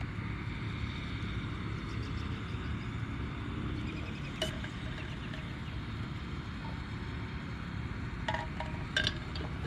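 Steady low outdoor rumble with a few faint short clicks, one about halfway through and a couple more near the end.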